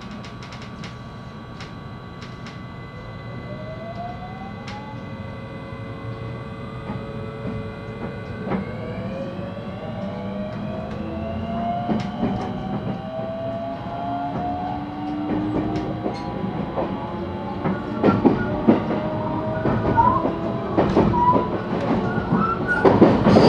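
JR West 223 series electric train's inverter-driven traction motors whining in several tones that climb together as the train pulls away and accelerates, heard from inside the car. Rail-joint clicks grow louder and closer together as it gathers speed.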